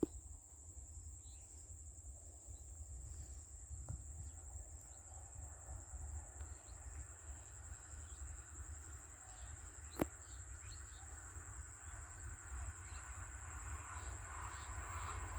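Faint, steady high-pitched drone of insects over a low outdoor rumble, with a single sharp click about ten seconds in. Over the last few seconds a rumble builds as a train approaches.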